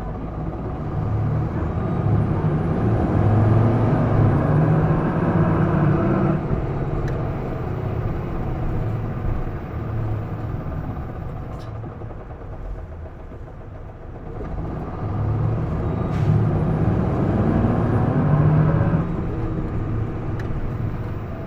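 Isuzu Erga city bus's turbo-diesel engine heard from inside the cabin, pulling hard at high revs twice. It climbs for about six seconds and drops off at a gear change, eases for a while, then climbs again about fifteen seconds in and drops again near the end. A thin high whine rises and falls with each pull; this bus is known for an unexplained abnormal noise.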